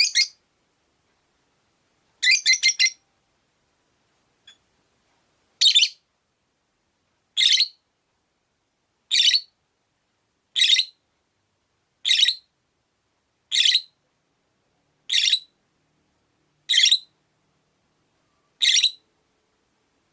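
Rosy-faced lovebird giving loud, high-pitched calls over and over, one about every one and a half seconds, with a quick run of four calls near the start.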